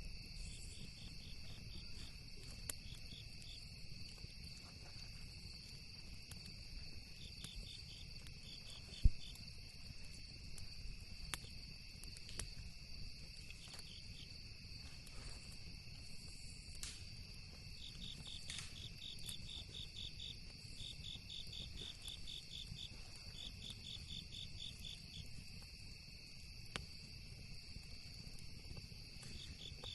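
Crickets and other night insects singing in a steady high drone, with recurring bursts of fast pulsed chirping. A campfire crackles now and then with sharp pops, the loudest about nine seconds in, over a low steady rumble.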